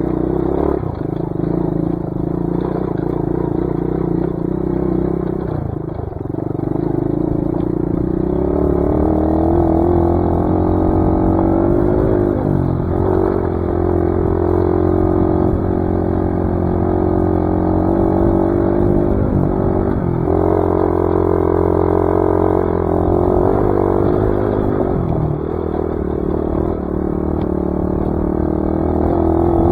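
Dirt bike engine running while riding, its revs rising and falling with the throttle: lower at first, then climbing after a brief dip and holding higher with a few short drops.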